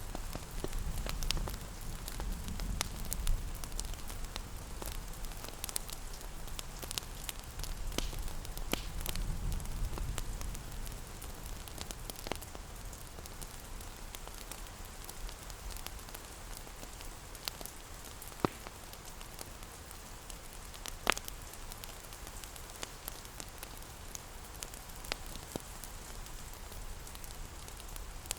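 Steady rain patters while a wood fire crackles, with scattered sharp pops, two louder ones past the middle. A low rumble sits under the rain for about the first ten seconds.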